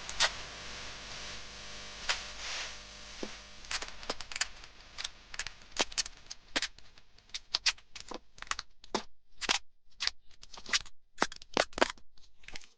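Irregular sharp clicks and taps of small hard parts being handled, coming faster in the second half.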